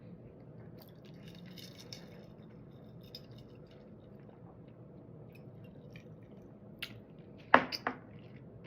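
Soft wet mouth sounds of someone eating, with faint scattered clicks, and a pair of sharp louder clicks about seven and a half seconds in.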